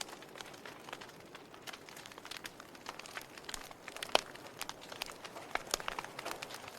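Log fire crackling: irregular sharp pops and snaps from the burning wood over a soft hiss of flames, with one louder pop about four seconds in.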